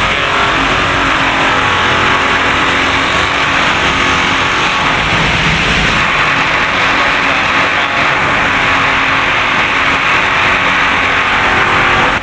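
Loud, steady road traffic noise from passing vehicles, with no single event standing out.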